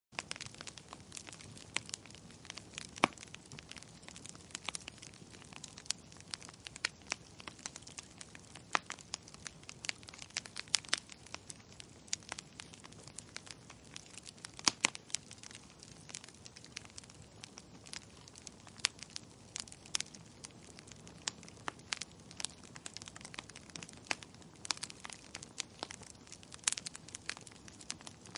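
Wood fire burning in a fireplace: steady low hiss with irregular sharp crackles and pops from the burning logs.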